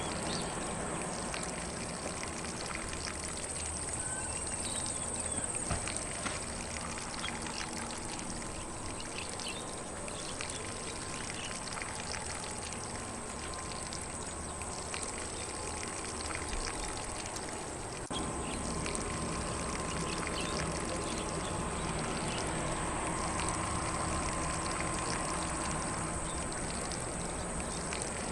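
Lawn sprinkler spraying water across grass in a steady hiss and patter, with faint occasional bird chirps behind it.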